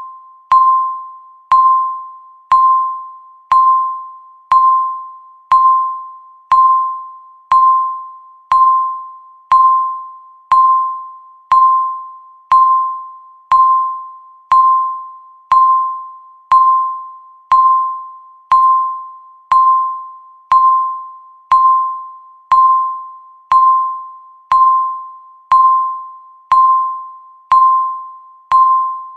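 Countdown timer beeping once a second: a single electronic tone, each beep starting sharply and fading away quickly.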